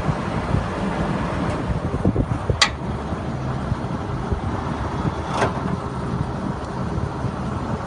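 Truck-mounted rotary table water well drilling rig running with a steady low engine drone, broken by two sharp knocks a few seconds apart.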